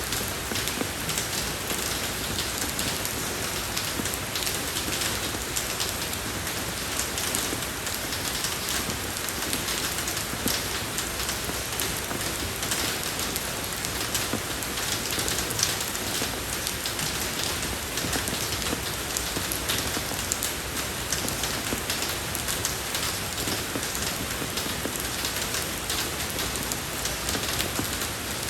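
Steady rain falling on a road surface, an even hiss flecked with the patter of individual drops.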